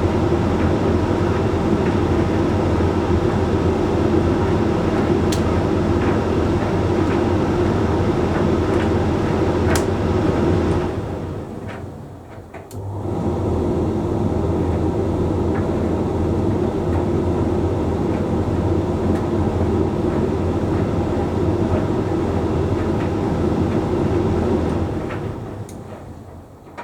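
Hoover Link X Care HLX C10DRGR condenser tumble dryer running mid-cycle: a steady motor and drum hum with a few faint clicks. It winds down to a stop about eleven seconds in, starts up again a second or so later, and winds down once more near the end.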